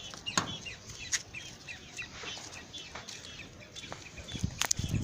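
Chickens clucking with many short, repeated high calls, and a few sharp knocks in between.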